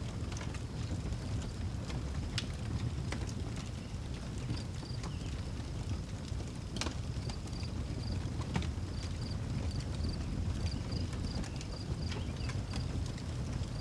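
Outdoor wood fire crackling, with scattered sharp pops over a low steady rumble. From about a third of the way in, crickets chirp in short, evenly repeated high pulses.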